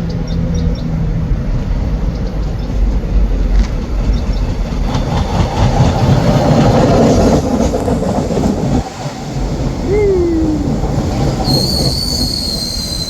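Cleveland RTA rapid transit train running on the rails with a heavy rumble, loudest mid-way. Near the end its wheels begin to squeal with high-pitched tones.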